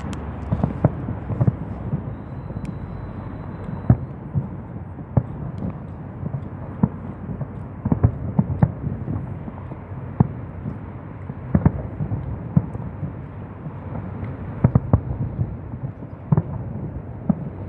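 Fireworks going off: irregular bangs and pops over a steady low rumble, with several close together near the end.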